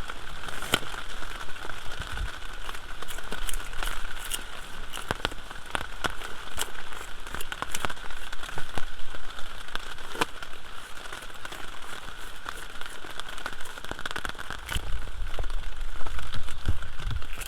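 Fish scales being scraped off with a plastic bottle cap: an irregular run of sharp scratchy clicks and rasps.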